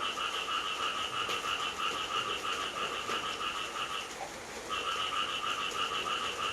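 Frog calling in long, rapid pulsed trills over the steady hiss of rain; the trill breaks off about four seconds in and starts again after a short pause.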